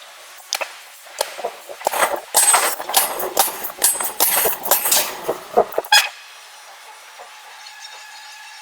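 Heavy metal clanking and scraping with a high squeal, a dense run of knocks for about six seconds that stops suddenly, leaving a steady machine hum.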